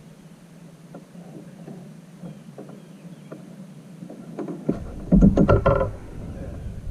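A quick cluster of knocks and thumps on a plastic sit-on-top fishing kayak, loudest about five seconds in, over a low steady rumble with a few small clicks before it.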